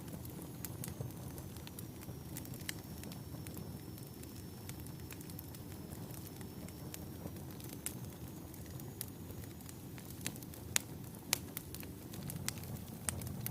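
Wood fire burning in a fireplace: a low steady rumble of flames with scattered sharp crackles and pops, a few louder pops about three quarters of the way in. A faint high thin whistle runs through most of it, then fades near the end.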